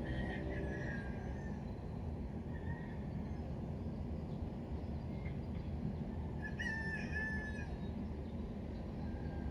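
A rooster crowing twice, once at the start and again about seven seconds in, over a steady low background rumble.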